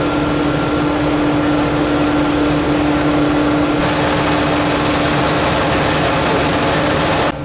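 Diesel train standing at the station platform with its engine idling: a steady hum with a constant tone over an even mechanical noise. It cuts off suddenly near the end.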